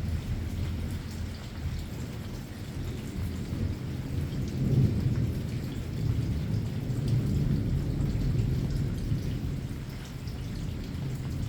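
Rolling thunder rumbling low and long over steady rain, swelling about halfway through and again near the end, with raindrops pattering and ticking on a surface.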